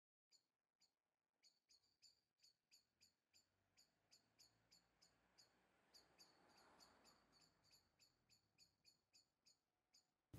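Near silence, with a faint bird chirping in quick, even repeats, about three short high chirps a second.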